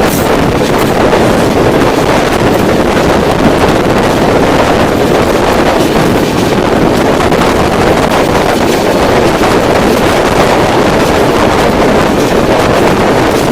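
Loud, steady rush of wind buffeting the microphone over the running noise of a moving passenger train.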